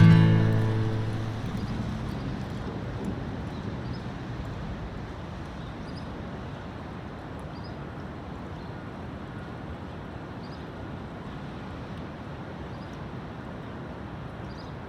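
A strummed acoustic guitar chord dies away, then a steady outdoor background rumble continues with faint high chirps every few seconds.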